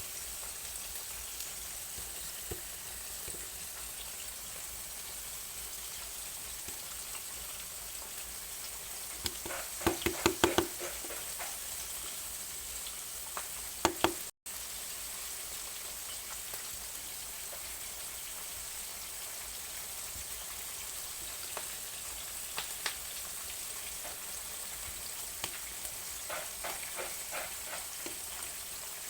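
Skin-on pork chops frying in a pan, a steady sizzle. A quick run of sharp knocks comes about ten seconds in, two more a few seconds later, and lighter clicks near the end.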